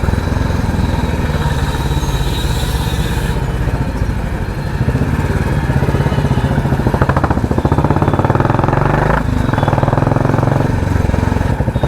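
Royal Enfield Classic 350's single-cylinder engine running through a loud aftermarket 'helicopter' exhaust while riding, a steady thumping that eases a little about four seconds in and then picks up again.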